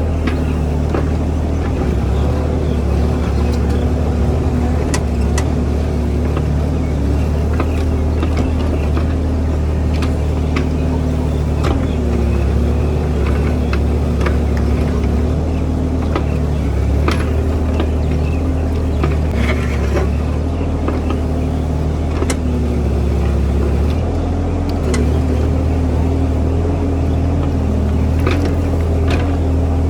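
Diesel engine of a mini JCB excavator running steadily under working load, its pitch shifting slightly about two-thirds of the way through. Scattered sharp clanks sound over it.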